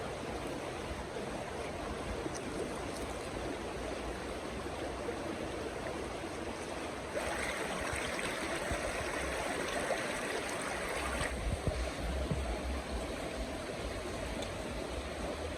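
Flowing stream water, a steady rushing that grows brighter and a little louder for about four seconds in the middle.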